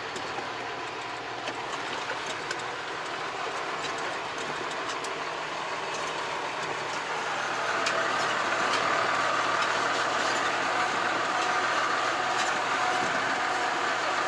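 Volvo VNL truck driving over a concrete-slab road: steady engine and road noise with many small knocks and rattles, getting louder about eight seconds in.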